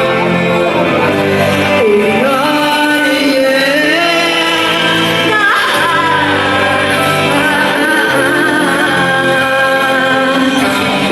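Live rock band playing, with a lead vocal singing a melody that slides between notes over sustained chords.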